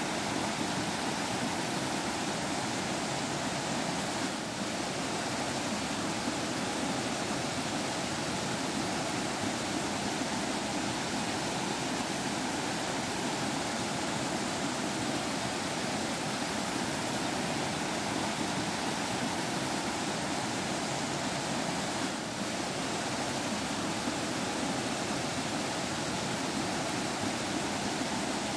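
Water flowing and trickling in a forest stream, a steady, even rushing.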